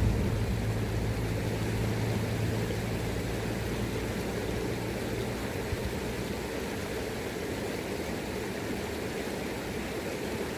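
River current rushing steadily, with a low steady hum that fades out about halfway through.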